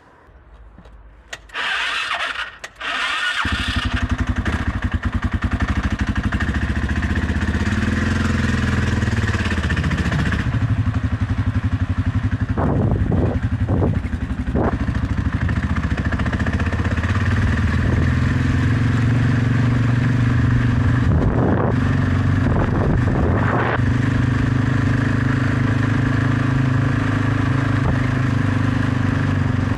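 Suzuki DR650 single-cylinder motorcycle engine being started: a short burst of cranking, then it catches about three and a half seconds in and runs steadily, with a few short louder bursts partway through.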